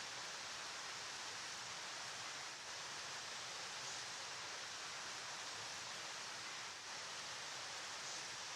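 A flowing river running steadily: an even rushing hiss, more hiss than rumble.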